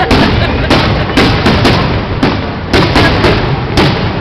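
Aerial fireworks shells bursting in quick succession, about ten loud bangs two or three a second, over a continuous rumble.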